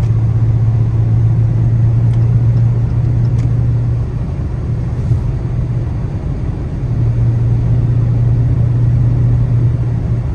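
Dodge Charger Hellcat's supercharged 6.2-litre V8 with its mid mufflers deleted, cruising with a steady low exhaust drone. The drone eases off about four seconds in and comes back strongly a few seconds later.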